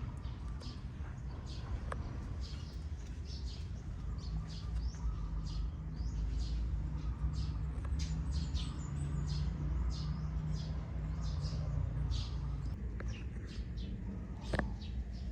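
Small birds chirping in many quick, short, high notes, over a low steady rumble.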